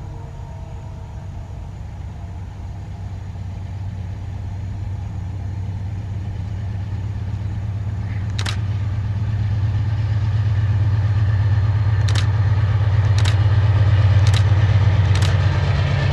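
Diesel locomotive approaching at the head of an empty pulp train, its low engine rumble growing steadily louder, with a few sharp clicks in the second half.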